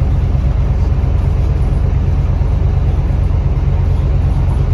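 Steady low rumble of a Scania K320UB city bus's diesel engine and road noise while it drives at an even pace.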